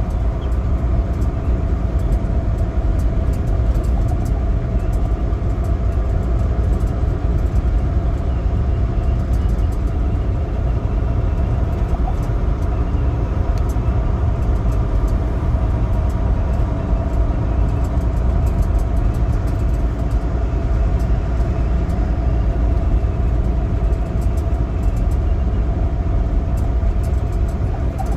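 Semi truck running down the road: a steady, unchanging drone of diesel engine and road noise while cruising.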